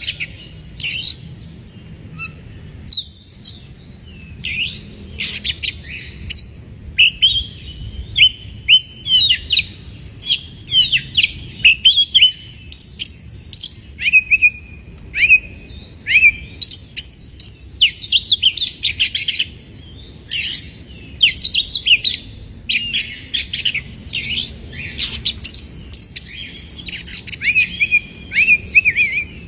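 Oriental magpie-robin (kacer) singing in breeding condition: a fast, varied run of sharp chirps and whistled notes, broken by short pauses.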